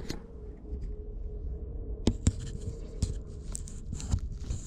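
Light handling noises while working inside a car: scattered small clicks, taps and scrapes over a faint steady hum.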